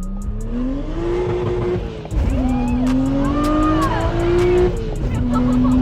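BMW N54 3.0-litre straight-six with a single-turbo conversion accelerating hard through the gears. The engine note climbs, drops at a shift about two seconds in, climbs again and shifts once more near the end. A high, wavering tyre squeal rises over it in the middle as the rear tyres lose traction.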